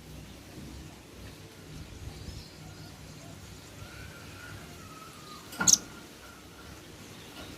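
Velvet-fronted nuthatch giving one sharp, high, doubled call about five and a half seconds in, over a faint low background hum: the call it uses to summon its companions.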